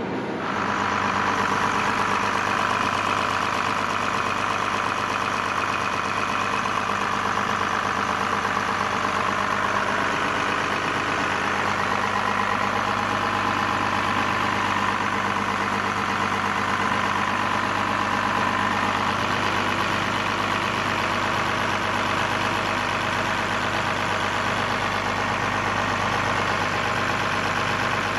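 Diesel engine of a Komatsu PC200EL-6K tracked excavator running steadily at an even speed.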